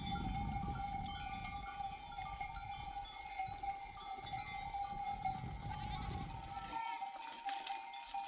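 Bells on a flock of sheep clinking and ringing as the animals move, over a low rumble that drops away about seven seconds in.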